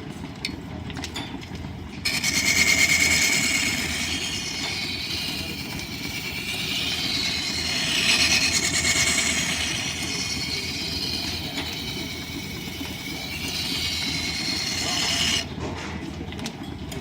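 Line-shaft-driven wood lathe running, with the steady rumble and light clatter of the overhead shafting and belts. From about two seconds in, a turning tool cuts the spinning wood with a loud hiss that rises and falls as the cut goes on, stopping abruptly a little before the end.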